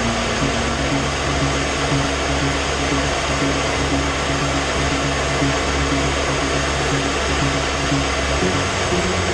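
Steady, loud rushing noise of a jet aircraft, with music underneath.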